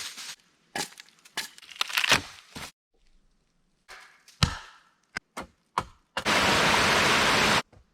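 Wood cracking and being chopped, heard as a string of short sharp cracks and strikes cut abruptly one after another. Near the end comes about a second and a half of loud, steady rushing noise that stops suddenly.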